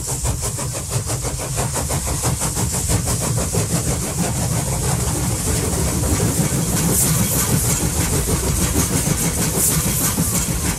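Recorded train sound effect: a train running, with a low rumble, a high hiss and a quick, even beat. It grows a little louder over the first half.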